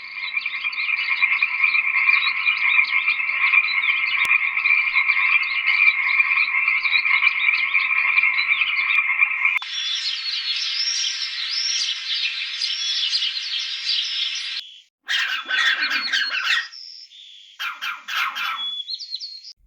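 A dense chorus of calling frogs, steady for about ten seconds. It then cuts to a different, higher-pitched chorus of quickly repeated calls. Near the end come a few separate short bursts of animal calls with gaps between them.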